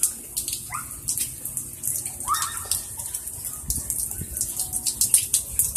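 Raindrops pattering in quick, irregular sharp taps from light rain.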